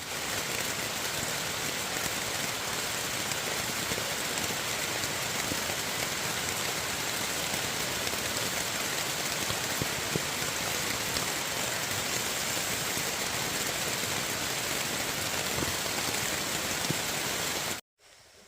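Heavy rain falling steadily: a dense, even hiss with a few scattered drop taps. It cuts off suddenly near the end.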